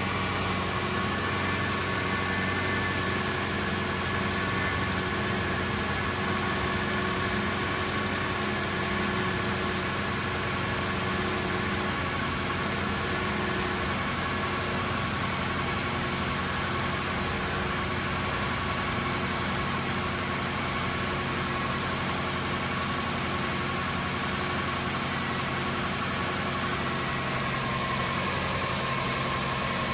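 2005 Lexus LS430's 4.3-litre V8 idling steadily after a cold start, with a thin high whine over the engine note.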